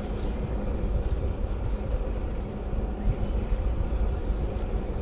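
Steady, fluttering low rumble of wind on the microphone, mixed with road noise from riding.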